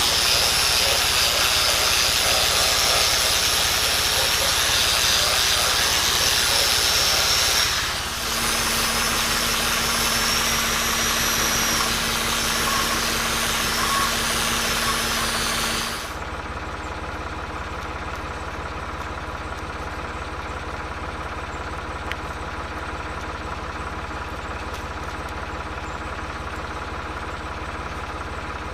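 An engine idling steadily. For the first half a loud steady hiss lies over it, with a short break about eight seconds in, and then it cuts off suddenly.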